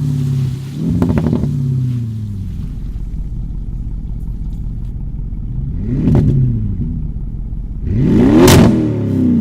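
Audi RS6's 4.0-litre twin-turbo V8 through an IPE valved aftermarket exhaust: a steady low drone broken by two quick revs, about 6 and 8 seconds in, each rising and falling back; the second is the loudest, with a sharp crack at its peak.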